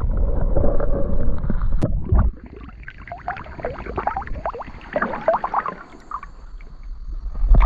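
Water gurgling and bubbling close to the microphone. A heavy low rumble for the first two seconds gives way to a run of short bubbly gurgles, and the rumble returns at the very end.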